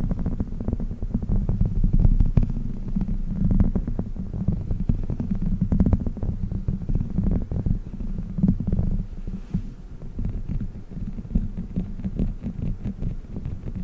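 A chicken-shaped dog toy being handled close to the microphone, giving dense, irregular, muffled low thumps and rumbles with small clicks over them.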